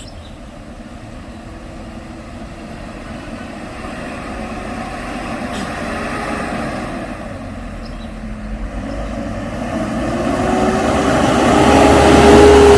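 A motor vehicle's engine running under load on a steep climb, growing steadily louder as it approaches and loudest near the end.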